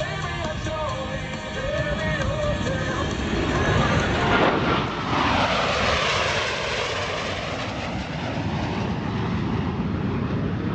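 An airplane flying low past, swelling to its loudest about four to five seconds in, then fading into a steady rumble.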